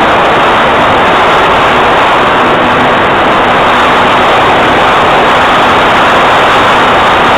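Cessna 182's single piston engine and propeller drone steadily in flight, heard from inside the cabin together with rushing airflow and a faint steady hum.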